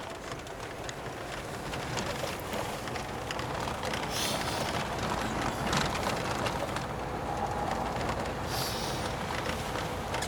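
A car driving: steady road and engine noise, with two brief swells of hiss about four seconds in and again near nine seconds.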